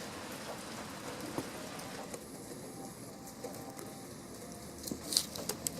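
Steady hiss and patter of water spattering, with a few sharp taps near the end.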